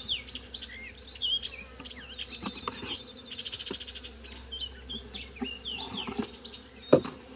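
Honeybees buzzing steadily around an opened hive, with songbirds chirping throughout and a few wooden knocks from hive frames and boxes being handled, the loudest about seven seconds in.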